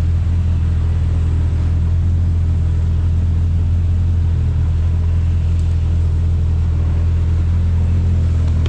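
Jeep engine running steadily at low revs, a constant low drone with no change in pitch.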